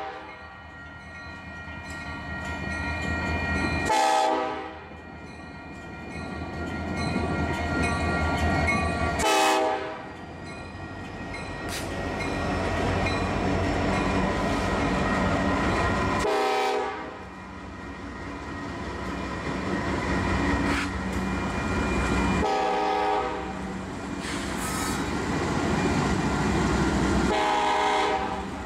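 Union Pacific diesel-electric freight locomotives passing a grade crossing: engines running with a steady rumble of the train on the rails, and the horn sounding five short blasts spread through the passage. A crossing bell rings steadily underneath.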